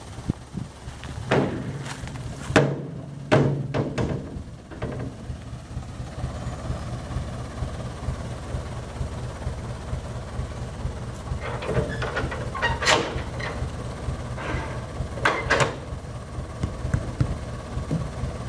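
Truck engine running steadily in the background, with clusters of sharp knocks and clanks over it, the bangs of cargo being unloaded.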